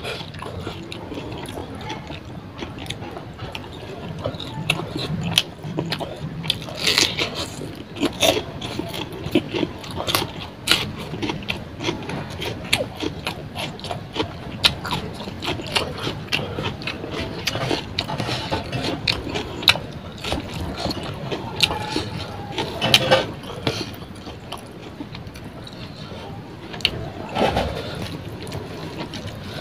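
Close-up eating sounds of a man chewing mouthfuls of rice and pangas fish curry, with many short mouth clicks and smacks.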